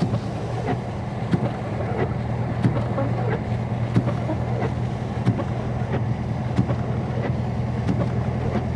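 Steady low drone inside the cabin of a 2022 Dodge Charger Scat Pack Widebody cruising slowly, its 6.4-litre (392) HEMI V8 and tyres on the snowy road. A light tick repeats evenly about every two-thirds of a second.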